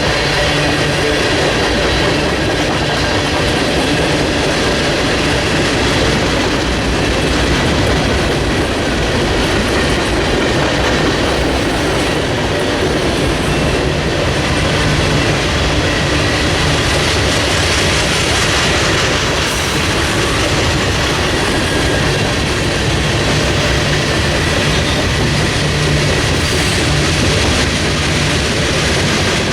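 Railroad cars rolling past: a steady rumble of steel wheels on rail, clickety-clack over the rail joints, and a faint wheel squeal.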